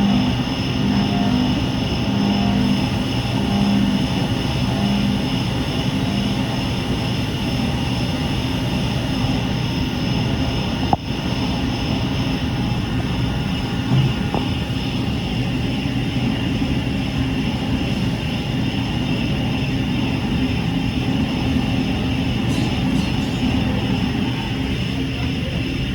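Hurco CNC milling machine running, a steady mechanical noise with a high whine over a low hum. A single sharp click comes about eleven seconds in.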